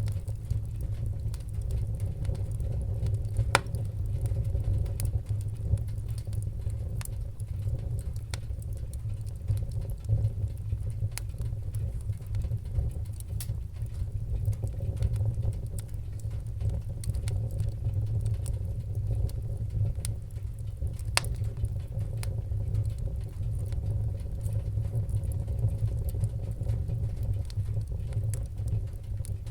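Wood fire burning in a fireplace: a steady low rumble with scattered sharp crackles and pops, a few seconds apart.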